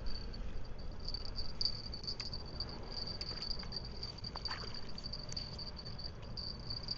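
Steady, high-pitched insect chirring, like a cricket, over a low rumble with a few faint clicks.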